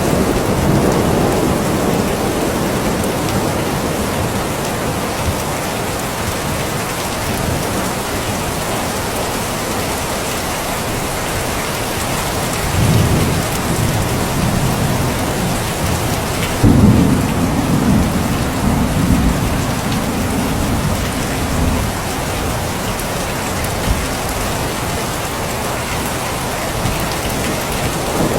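Steady heavy rainfall, with low rolls of thunder: a brief rumble about halfway through, then a louder one that breaks suddenly a few seconds later and rolls on for several seconds.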